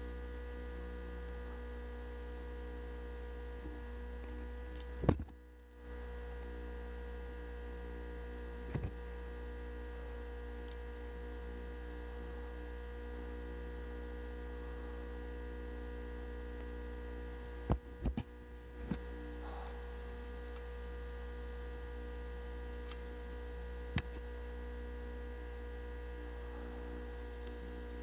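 Steady electrical hum made of several fixed tones, broken by a few sharp clicks: one about five seconds in, another near nine seconds, a quick cluster around eighteen to nineteen seconds, and one more near the end. The hum drops out briefly just after the first click and again during the cluster.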